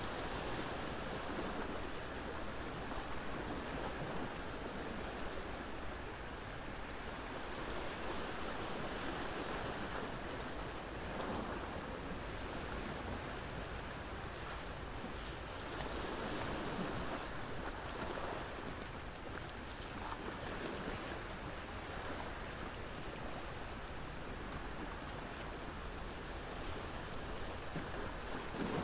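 Ocean surf washing in, a steady rush that swells and eases every several seconds, with a few faint crackles from a wood fire.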